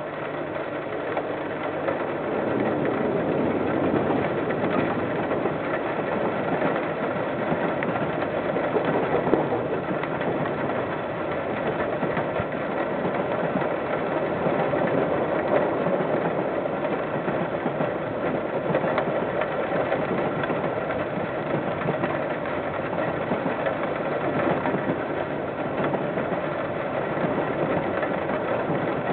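A KiwiRail train running steadily, an engine-like mechanical noise that holds at an even level throughout, heard through a security camera's narrow-band microphone.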